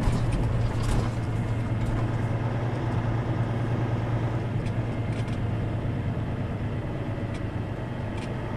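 Steady low engine drone and road noise inside the cab of a Kenworth T680 semi truck under way, the drone easing slightly after the first few seconds.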